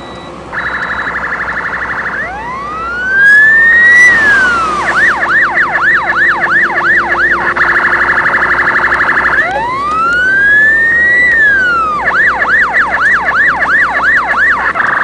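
Electronic emergency-vehicle siren cycling through its tones: a rapid warble, then a slow wail that rises and falls, then a fast yelp of about four cycles a second. The wail-and-yelp sequence repeats once more.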